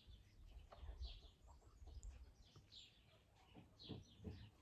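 Faint bird chirps in the background: short, high notes, each dropping in pitch, repeating roughly every half second to a second over a low rumble.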